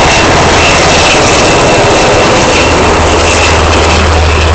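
Loud, steady aircraft engine noise with a low drone underneath that grows stronger near the end.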